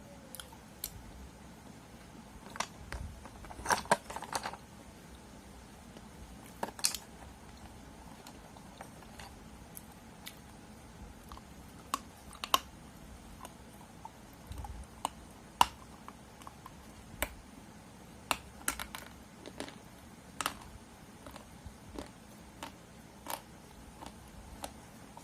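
Irregular sharp crunches and clicks, about one a second and some louder than others, from a brittle non-food item being crunched close to the microphone.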